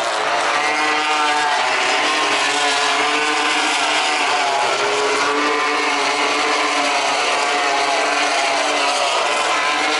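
MotoGP racing motorcycles passing at speed through a run of corners, several engines overlapping, each rising and falling in pitch as the riders brake and accelerate.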